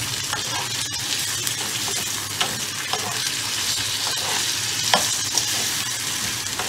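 Diced potatoes and sliced onions sizzling in hot oil in a frying pan as a metal ladle stirs them, scraping and knocking against the pan now and then, most sharply about five seconds in.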